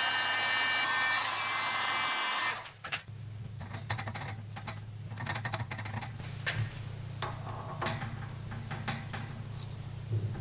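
Heat gun running with a steady whine, switched off about two and a half seconds in. Then come scattered light metallic clicks and taps as a bearing is set into the heated eccentric hub, over a low steady hum.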